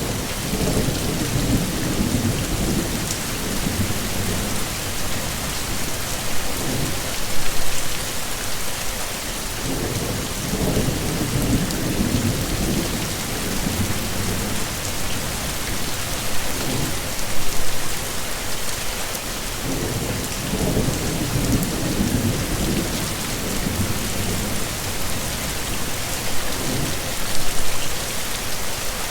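Heavy rain pouring steadily, with low rumbles of thunder that swell and fade every ten seconds or so. A brief louder burst comes three times.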